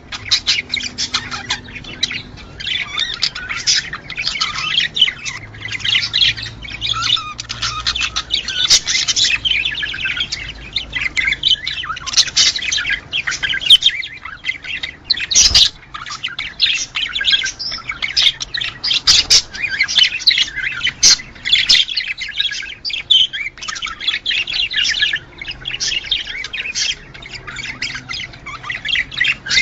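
Budgerigars chattering and warbling continuously, a dense run of quick overlapping chirps and squawks. A single sharp click sounds about halfway through.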